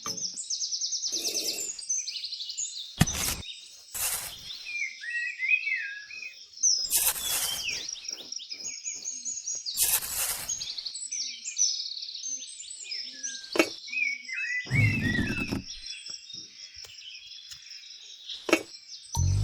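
Birds chirping continuously, with short warbling calls, broken by several sharp knocks and brief noisy bursts.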